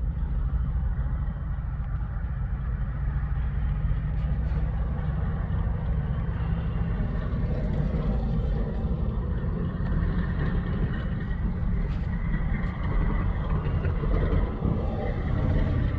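Freight train pulling in slowly to stop for a crew change, its diesel locomotives giving a steady low rumble over the noise of the rolling cars.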